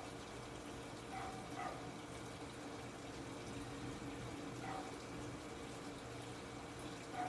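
TCL top-load washing machine running its wash program: a steady hum with water splashing and sloshing in the tub every few seconds.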